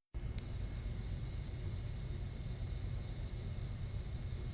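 Audio recording of the so-called Havana syndrome sound: a loud, steady, high-pitched shrill drone that starts about half a second in. Investigators matched it to the call of a cricket, the Indies short-tailed cricket.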